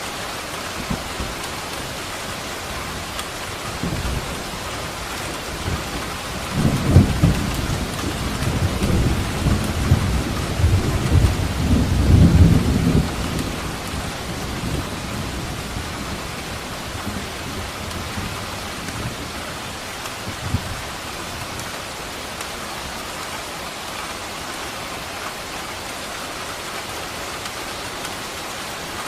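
Steady heavy rain falling, with a rolling thunderclap that swells from about four seconds in, peaks twice, and dies away by about fourteen seconds; a faint low rumble follows near twenty seconds.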